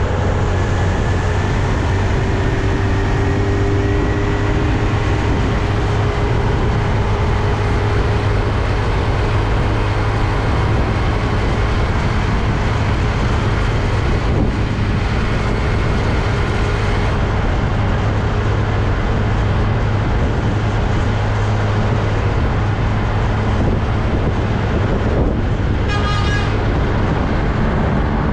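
Heavy street traffic: truck engines running, with a steady low hum and road noise. A brief high-pitched sound comes near the end.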